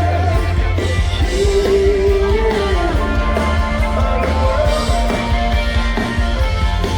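Rock song with a singer holding a long note about a second in, over electric guitar, bass and drums.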